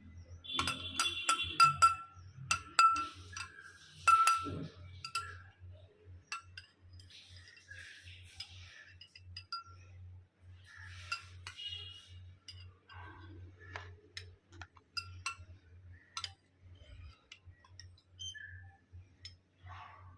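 Glass or dishes clinking: a quick run of ringing clinks in the first few seconds, then scattered lighter clicks and handling noises.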